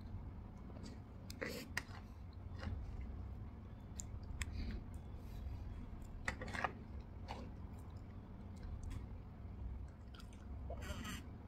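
Close-up eating sounds of soft cream-covered strawberry Swiss roll: wet chewing and lip smacks, with a few sharp clicks of a metal spoon against the plate as cream is scooped. A steady low hum runs underneath.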